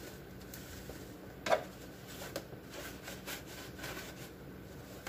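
Scrubbing a removed refrigerator part: short, irregular rubbing strokes, with one sharp knock about a second and a half in.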